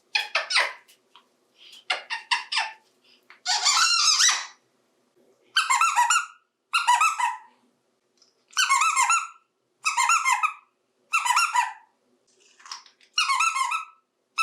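African grey parrot making a string of high-pitched squeaky calls. A few quick short notes and a harsher burst come first, then seven similar calls repeated about every second and a half.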